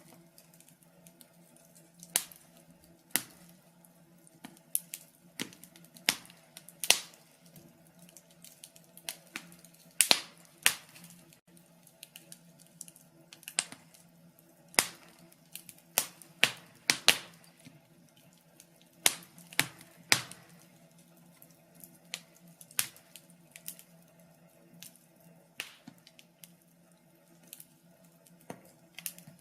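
Wood fire crackling in a fireplace: irregular sharp pops and snaps, some loud and some faint, coming in uneven clusters with short lulls between. A faint steady low hum runs underneath.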